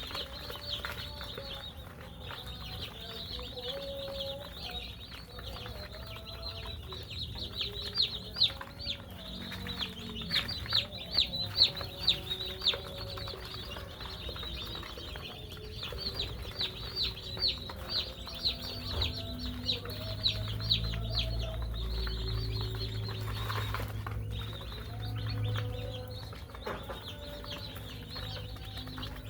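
A crowd of day-old broiler chicks peeping: a dense chorus of short, high chirps, loudest in the middle. A low hum joins about two-thirds of the way in.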